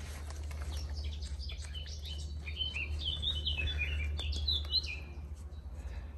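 A songbird chirping outdoors: a quick run of short, sliding chirps, busiest in the middle and stopping about five seconds in, over a low steady rumble.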